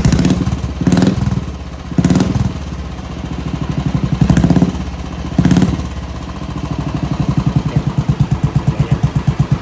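Royal Enfield single-cylinder engine running through an aftermarket Pazooma stainless-steel exhaust. It idles with an even pulsing beat and is revved up briefly about five times in the first six seconds, then settles back to idle.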